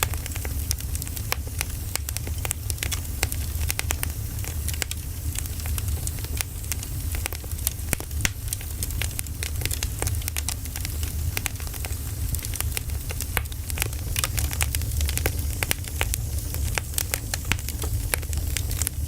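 Firewood burning: dense, irregular crackling and popping over a steady low rumble.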